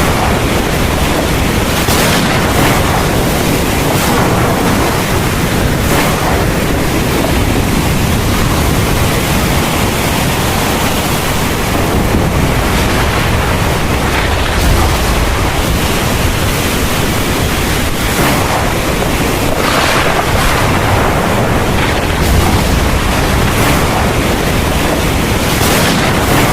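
Heavy thunderstorm rain falling steadily, with thunder rumbling low underneath and a few brief louder swells of rain.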